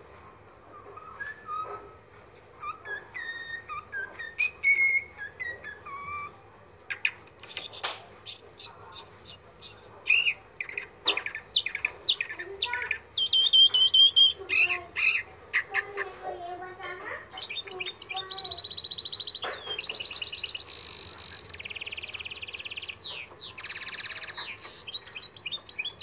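Birds singing and calling, several different kinds in turn. Soft whistled notes come first. From about seven seconds in come loud, rapid, high-pitched chirps and trills, which become dense and buzzy near the end.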